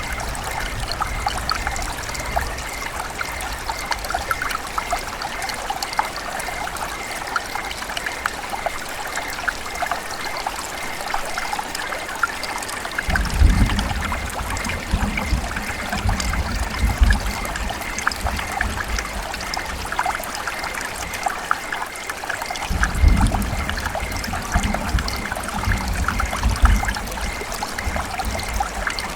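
River water running and trickling steadily, a continuous babble with fine splashes. A low rumble comes in about thirteen seconds in and again about twenty-three seconds in, each lasting several seconds.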